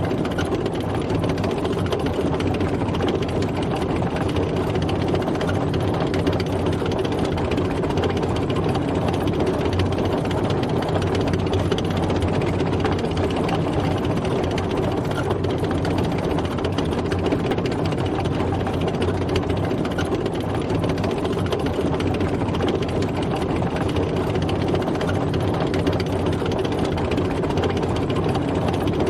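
Tracked military tank driving, its engine running steadily under the noise of the moving vehicle.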